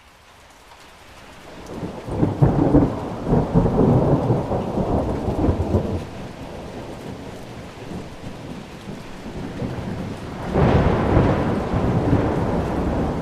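Thunderstorm: steady rain that swells up over the first couple of seconds, with a long roll of thunder starting about two seconds in and lasting about four seconds, and a second roll about ten seconds in.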